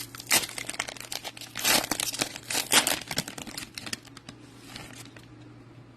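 Crinkling and tearing of a trading card pack's plastic wrapper as it is ripped open, for about four seconds before it quiets down.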